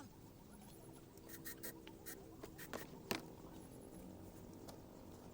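Faint scraping and light, irregular clicks from a dried seed gourd being handled and worked open for its seeds.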